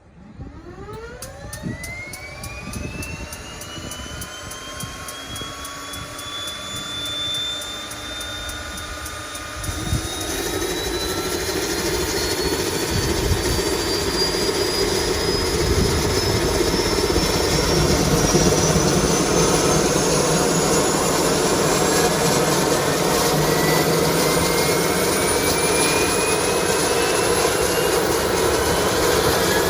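Crop-dusting airplane's turboprop engine starting: a whine rises steeply, then keeps climbing slowly in pitch, and about ten seconds in a louder rushing sound joins and builds to a steady run.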